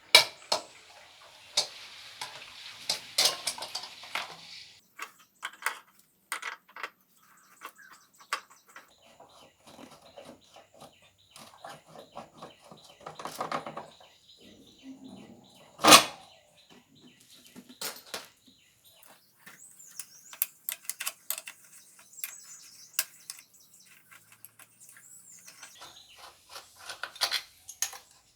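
Metal tools and parts clinking and knocking in irregular bursts, with a hiss in the first five seconds and one sharp loud knock about halfway through.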